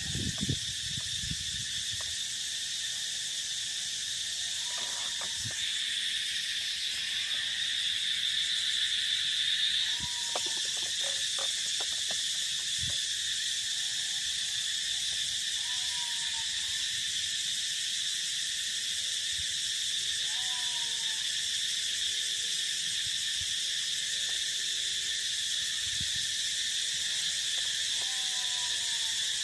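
Steady chorus of field insects such as crickets, a continuous high buzzing that swells for a few seconds about a third of the way in. A short, falling animal call comes through about every five seconds.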